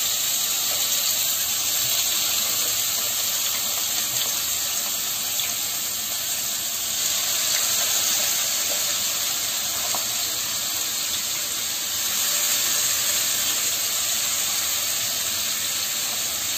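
Diced potatoes frying in hot oil in a kadai: a steady sizzling hiss.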